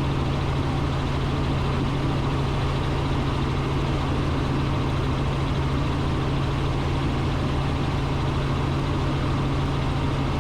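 Robinson R44 Raven II helicopter in cruise flight, heard from inside the cockpit: its six-cylinder Lycoming engine and rotors make a steady low drone that holds constant in pitch and level.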